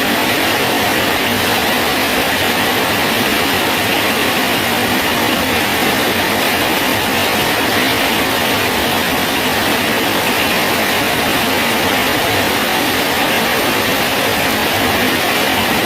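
Steady rain falling on a bridge: an even, unbroken hiss with no letup.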